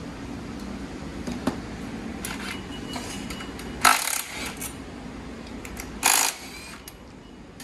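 Metal tools and bolts clattering during a dirt-bike teardown: two short, loud metallic rattles, about four and six seconds in, with small clicks between them, over a steady low hum that stops near the end.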